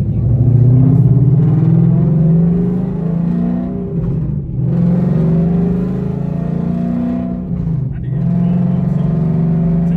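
Car engine and exhaust pulling under acceleration, the pitch climbing and then dropping sharply twice, about four seconds in and again near eight seconds, as it shifts up through the gears.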